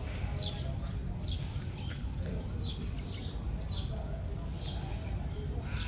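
A bird chirping over and over, about six short, high chirps that fall in pitch, roughly one a second, over a steady low background rumble.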